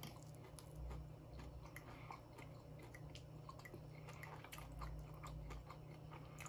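A person chewing soft food close to the microphone, with many small wet mouth clicks and smacks, over a steady low hum.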